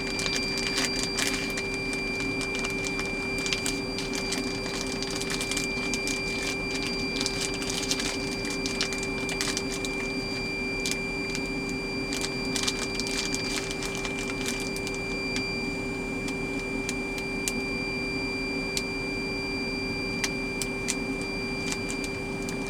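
Plastic zip-top bag crinkling and rustling in irregular short crackles as a steak is packed into it, over a steady electrical hum with a thin high whine from a running appliance.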